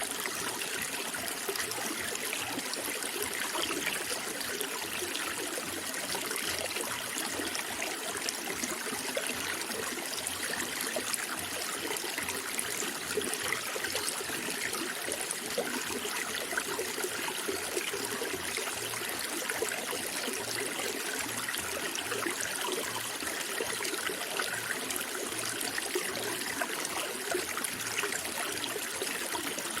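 Running water flowing steadily, a continuous even trickle and splash with no change in level.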